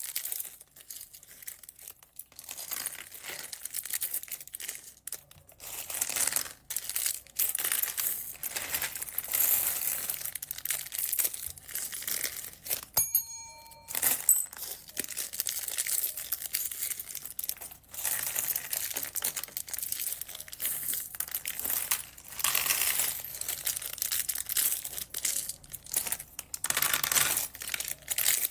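Plastic packaging bags crinkling and rustling as they are handled and opened, in continuous irregular crackles. About halfway through there is a brief pause that holds a short bell-like ding.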